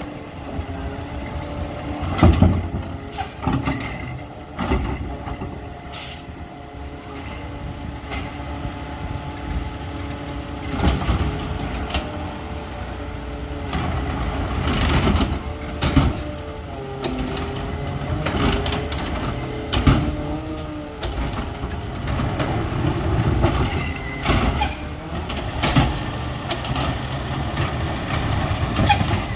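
McNeilus ZR automated side-loader garbage truck on a Freightliner 108SD chassis at work: the diesel engine runs under a hydraulic arm whining in two long stretches near the middle, carts bang and knock several times, and the air brakes hiss.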